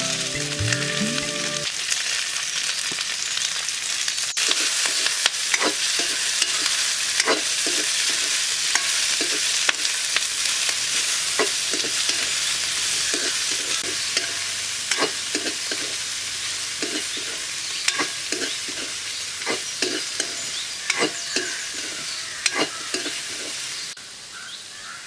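Vegetables frying in hot oil in a pan, with a steady sizzle and a utensil knocking and scraping against the pan about once a second as they are stirred.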